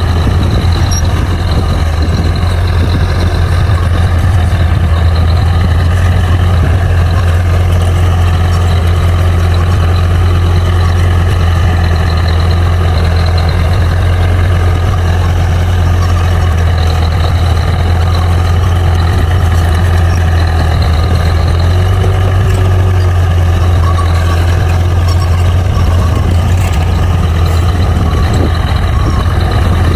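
Bulldozer's diesel engine running steadily at a constant speed, a loud even low hum with no revving.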